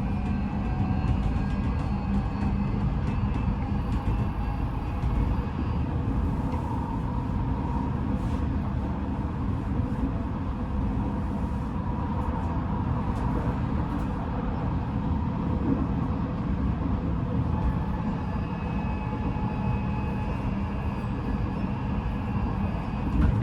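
Odakyu 5000 series electric train running along the line, heard from inside the motor car: a steady rumble of wheels on rail, with the faint steady tones of its Mitsubishi full-SiC VVVF inverter and traction motors.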